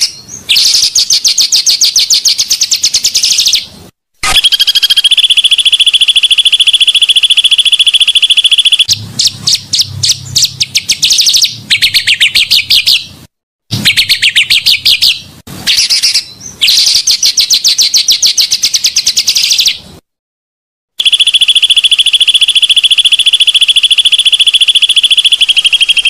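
Banded pitta song: long, very fast, high-pitched rolling trills of several seconds each, separated by short breaks. Near the middle some shorter trills slide down and up in pitch.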